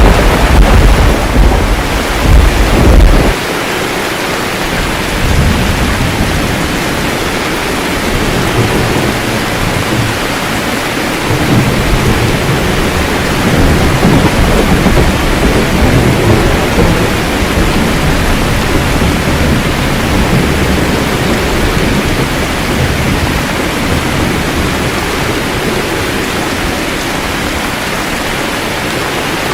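Steady heavy rain with thunder: a loud, deep thunderclap rumbles through the first three seconds and stops abruptly. Softer rolling thunder follows from about five seconds in and fades to plain rain after about seventeen seconds.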